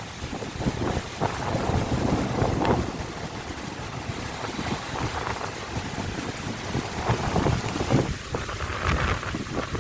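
Storm wind gusting against the microphone: a rushing noise with low buffeting that swells and eases irregularly.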